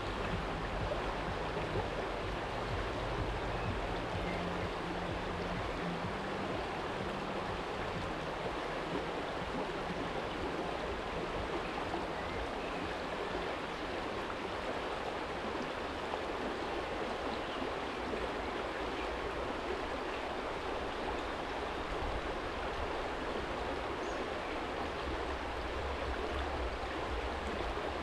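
Small stream running steadily over a stony bed, an even rushing and babbling. A low rumble sits under it, stronger in the first several seconds and again near the end.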